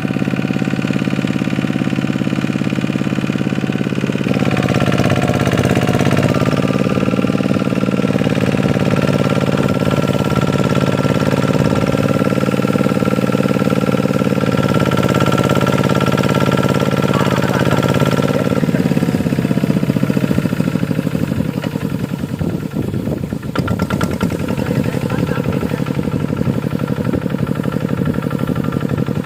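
Tractor diesel engine running steadily under load while ploughing. Its note strengthens about four seconds in, then drops lower and rougher after about nineteen seconds.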